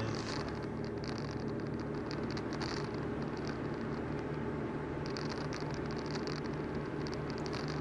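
Volkswagen Golf 4 running steadily on the move, a low drone under road noise, with the rattle and puff of an exhaust leak from a broken exhaust pipe. The leak is more noticeable on a cold start.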